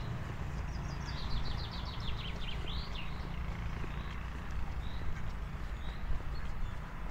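Songbirds singing: a rapid trill of high, falling notes starts about a second in and lasts about two seconds, while a short high call repeats about once a second. A steady low outdoor rumble runs underneath.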